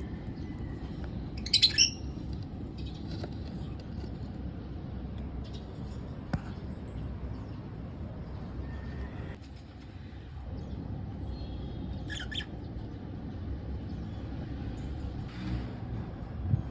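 Lovebirds giving two short, loud, shrill squawks, one about a second and a half in and one about twelve seconds in, with a few fainter chirps between, over a steady low background rumble.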